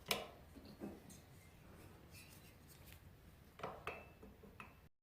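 Light knocks and clinks of small hard parts being handled, with faint rubbing between: a sharp knock at the start, another just before a second in, and a short cluster of clicks near the end, some with a brief metallic ring. The sound cuts off abruptly just before the end.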